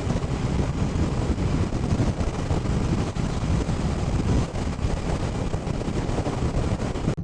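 Wind rushing over the microphone on a moving motorcycle, with the engine and road noise running steadily underneath.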